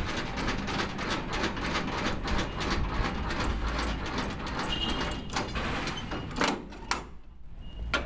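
Semi-trailer landing gear being lowered with its hand crank: a rapid, continuous run of metallic clicks and clatter from the gearing, fading out about seven seconds in.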